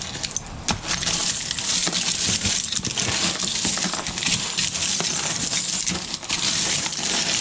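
A mass of small dug-up metal junk (can slaw fragments, pull tabs and similar scraps) rattling and clinking continuously as it is handled and sorted.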